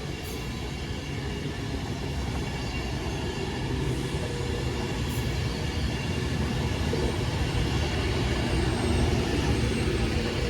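Class 390 Pendolino electric train coming in along the platform. Its low, steady rumble of wheels and traction hum grows slowly louder.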